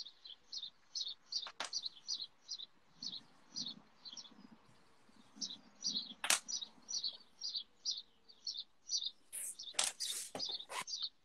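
A small bird chirping over and over, about three short high chirps a second. Near the end there is a brief crackly tearing as the wax-and-plastic coating is peeled off an oil stick.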